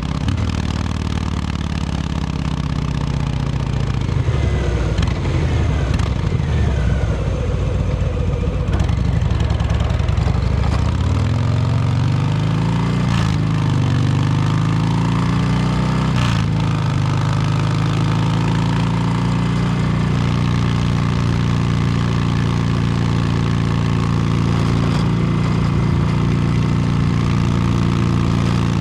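2022 Harley-Davidson Low Rider S V-twin engine through an S&S Superstreet 2-into-1 exhaust, running under way. The revs rise and fall with sharp drops at gear changes in the first half, then settle to a steady cruise for the rest.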